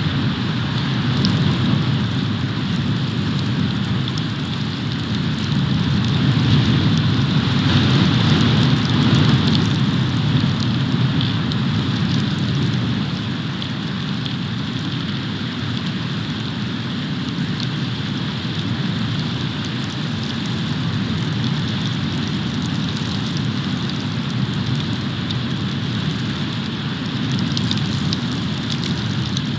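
Snowstorm heard through an outdoor nest camera's microphone: a steady wash of wind and precipitation noise, swelling a little about six to ten seconds in.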